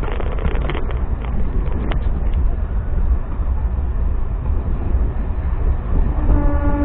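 MEMU electric train running along the track with a steady low rumble and a run of sharp clicks from the wheels over rail joints in the first second. Its horn starts sounding about six seconds in.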